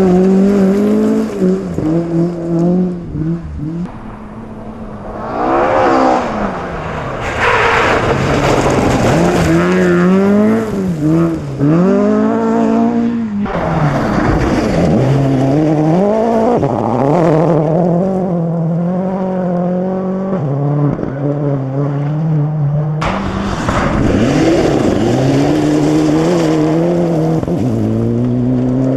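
Rally cars at full effort on a gravel stage, their engines revving up and dropping back through gear changes as they pass. The sound switches abruptly a few times from one car to the next.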